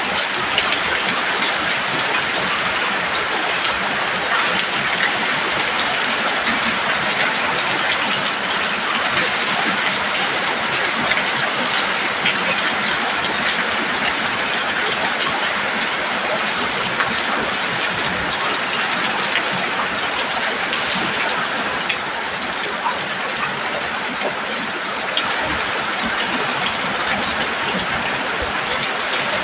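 Heavy rain falling steadily on a roof, a dense, even patter with fine scattered drop hits.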